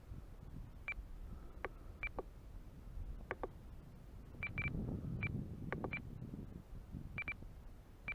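Short high-pitched beeps, scattered and irregular, some in quick pairs, over a low wind rumble.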